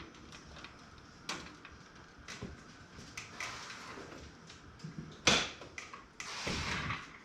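Zip ties being snipped and handled while cables are tidied in a PC case: scattered small clicks, a sharp snap about five seconds in, then about a second of scraping.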